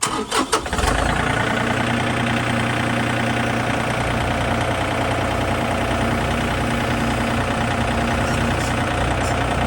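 John Deere tractor engine starting after a few short knocks, catching about a second in, then running steadily.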